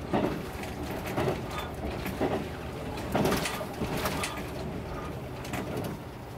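Yufuin no Mori diesel railcar running along the track, heard from inside the passenger cabin: a steady low rumble with irregular knocks and faint squeaks from the moving train.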